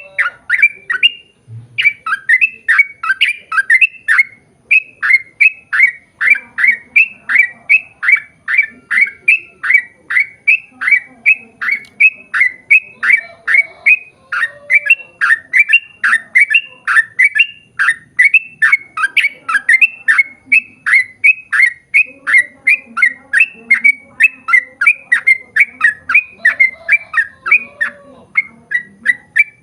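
Yellow-vented bulbul (trucukan) singing a long rapid run ('ropel panjang') of sharp, falling chirps, about three a second with hardly a break.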